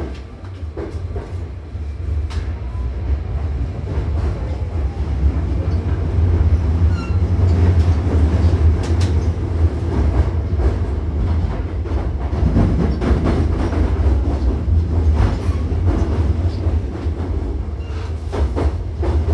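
Hankyu commuter train carriage running, heard from inside: a steady low rumble that builds over the first several seconds as the train pulls away and then holds. Clicks and knocks from the wheels and rail joints are scattered through it.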